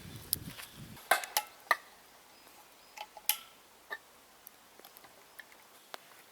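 Scattered sharp clicks and ticks, several close together a little over a second in, another group about three seconds in, then fainter ticks.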